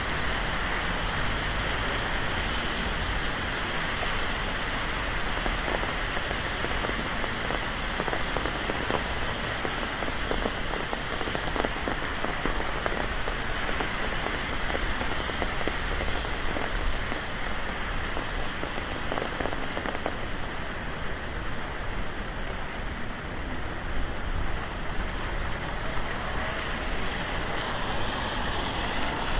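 Steady rain falling on a city street: a dense, even hiss made of many small drop impacts.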